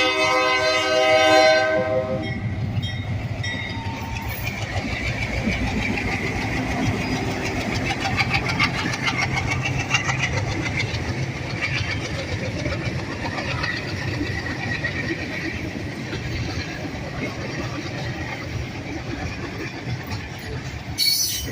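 A diesel train's horn sounds a chord and cuts off about two seconds in. It is followed by the steady rumble of the train rolling past, with wheels clicking over the rail joints.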